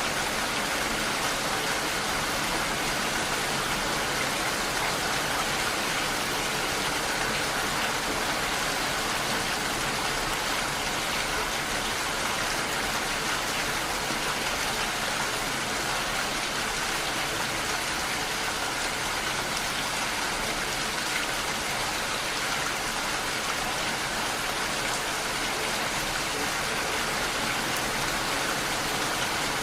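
Steady rainfall, an even hiss of rain with no let-up or change.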